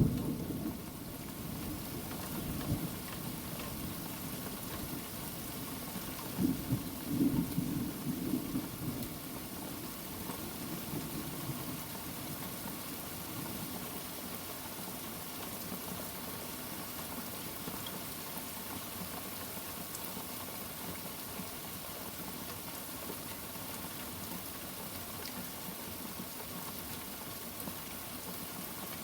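Thunderstorm recording: steady rain, with the end of a loud thunder rumble dying away in the first second and another roll of thunder rumbling about six to nine seconds in.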